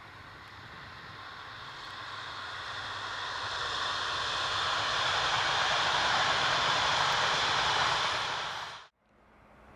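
E6-series Komachi Akita Shinkansen train approaching at speed, its running noise growing steadily louder for about eight seconds and then cutting off abruptly.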